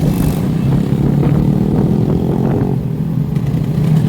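Motorbike engines running steadily, a continuous low rumble with a few short sharp noises in the middle.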